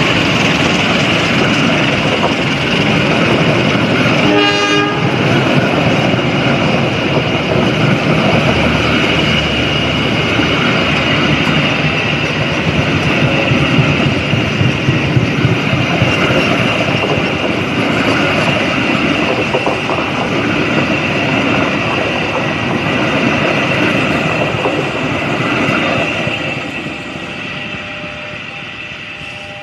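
Long passenger train of coaches behind a CC 201 diesel-electric locomotive passing at speed: steady rumble and rattle of steel wheels on the rails. A short horn blast sounds about four seconds in. The noise drops off near the end as the last coach moves away.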